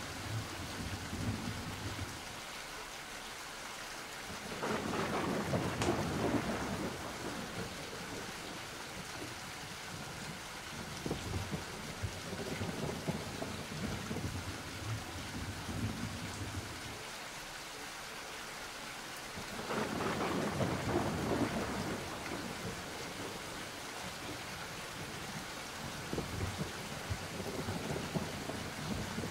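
Thunderstorm ambience: steady rain with rolling thunder that swells up twice, about five seconds in and again about twenty seconds in.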